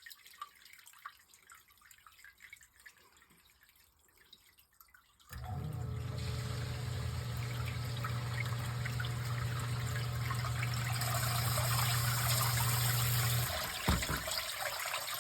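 Near silence with a few faint clicks, then about five seconds in a newly installed sump pump starts up: a steady low motor hum with water rushing and trickling as it pumps out the sump pit. The hum breaks off briefly near the end.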